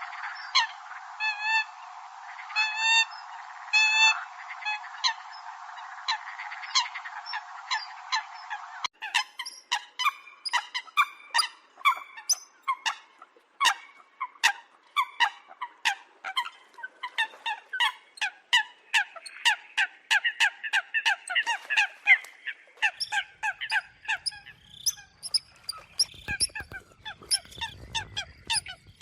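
Eurasian coots calling: a long run of short, sharp honking calls, many overlapping. About nine seconds in the recording switches to a cleaner one with denser calling.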